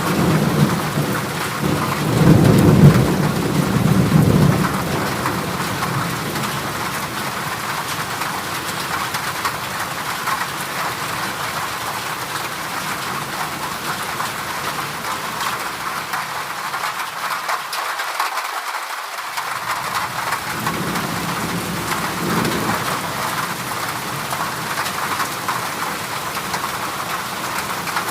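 Heavy rain falling on a corrugated zinc roof, a steady dense patter, with a deep rumble swelling over the first few seconds and a fainter one about twenty seconds in.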